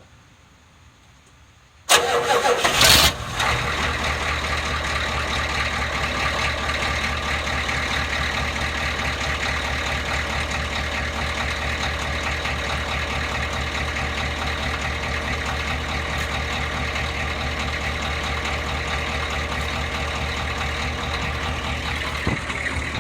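1984 Ford F-250's 6.9-litre IDI V8 diesel cold-started: the starter cranks for about a second, about two seconds in, then the engine catches and settles into a steady idle.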